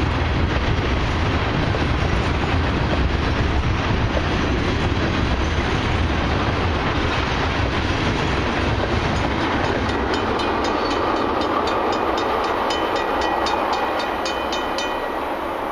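Loaded tank cars of a freight train rolling over a level crossing, the wheels giving a steady rumble on the rails. About ten seconds in, the rumble thins as the last cars clear, and the crossing bell's quick, even dinging, about three strokes a second, comes through.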